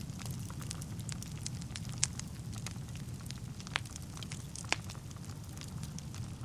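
Wood fire burning in a fireplace: a steady low rumble of flames with frequent crackles and snaps of burning logs, the sharpest pops about 2, 4 and 5 seconds in.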